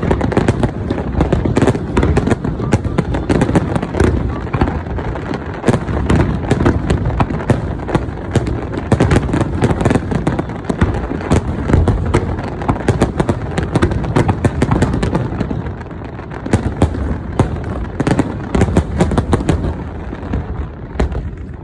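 Fireworks going off in a rapid, continuous barrage of bangs and crackles over a low rumble, thinning a little near the end.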